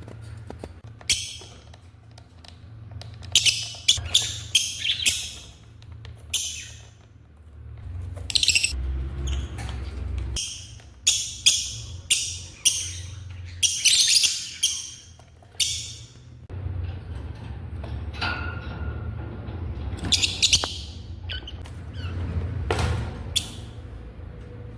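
African lovebirds calling: loud, shrill, harsh chirps in quick clusters of several calls, with short pauses between the clusters.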